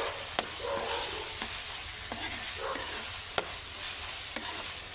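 Onion-tomato masala sizzling in a steel kadhai as a metal spatula stirs and scrapes through it, with a few sharp clinks of the spatula against the pan.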